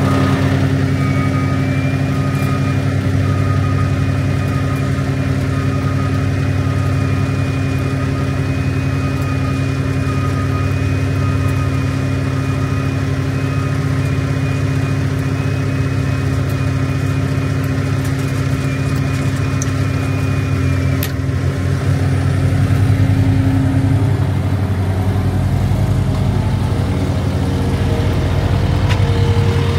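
Cummins X15 inline-six diesel of a triaxle dump truck idling steadily, with an electric tarp motor whining high and steady for about twenty seconds as the tarp is run, then cutting off. Near the end the engine's low note deepens.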